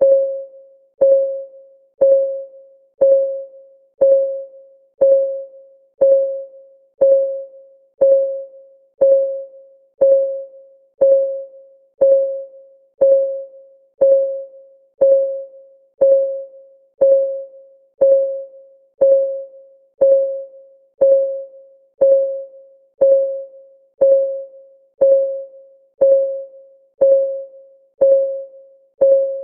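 Countdown timer's clock-ticking sound: a short pitched tick once a second, each fading quickly, steady throughout.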